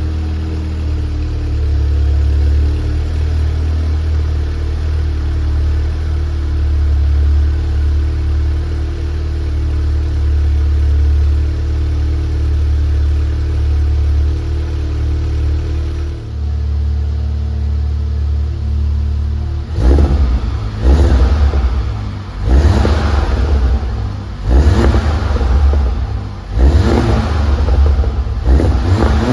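Seat Leon Cupra 280's 2.0-litre turbo four-cylinder, with a 3-inch downpipe and no middle silencer, idling high and steady just after a cold start. The idle drops a little past the halfway point, then the engine is blipped about six times in quick succession near the end.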